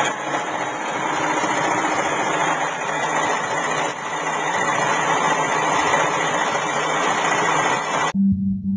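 Home-built brushed electric motor with neodymium magnets running at high speed, a steady, dense whir with brush noise. It cuts off suddenly about 8 s in, replaced by a low held synthesizer tone.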